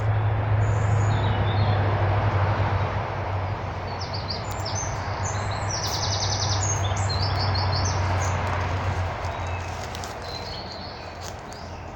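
Small birds chirping in a run of short high notes over a steady low rumble, which fades away over the last few seconds.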